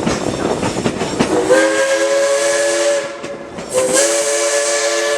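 Steam locomotive's chime whistle blowing two long blasts, each a chord of several tones with a steam hiss, the first starting about a second and a half in and the second after a short break. Before the whistle, the train's running rumble and wheel clatter.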